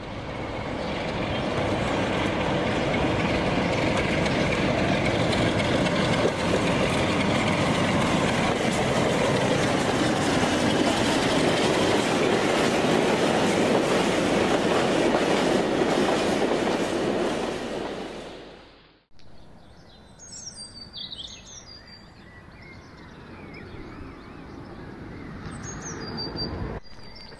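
Passenger train running along the track, a loud steady rumble and rattle that fades away about two-thirds of the way through. After a cut, quieter outdoor sound with a few short high chirps.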